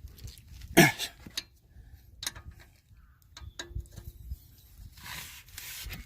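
Metal tools and parts clinking and knocking during hands-on work on a car's suspension: one sharp clank about a second in, then a few lighter irregular clicks, and a soft rustle near the end.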